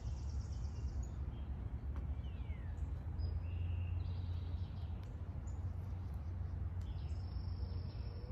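Birds chirping, with short high calls and one quick falling note about two seconds in, over a steady low rumble.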